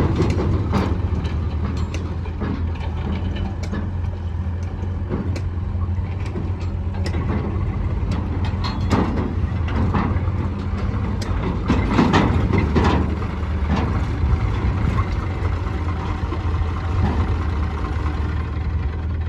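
Diesel engines of a tractor and a backhoe loader running steadily while soil is loaded. Irregular clanks and rattles from the bucket and trailer come through the engine noise, most of them about halfway through.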